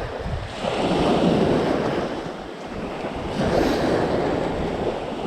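Wind buffeting the microphone in two swelling gusts, over waves washing on the shore.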